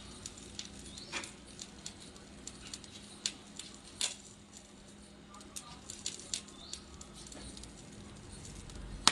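TIG welding arc on mild steel: a faint steady hum and hiss with irregular sharp crackles, and one loud snap near the end.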